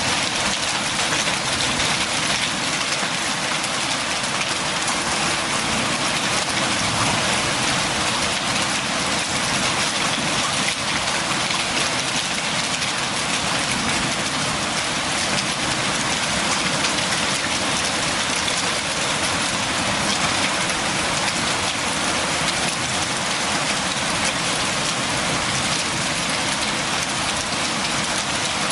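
Steady, dense rain falling on surfaces, an even hiss of many drops without pause.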